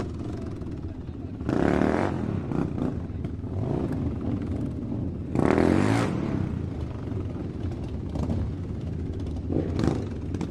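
Small electric motor of a home-made toy machine running steadily with some clatter, surging louder twice.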